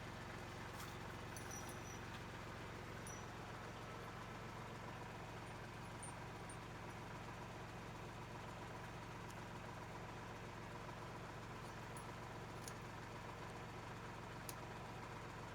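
Tractor engine idling steadily and faintly, with a few faint short ticks.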